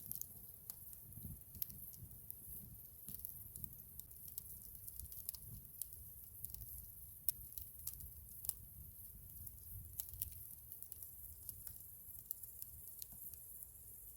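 Campfire crackling: irregular sharp pops and snaps, several a second, over a low rumble.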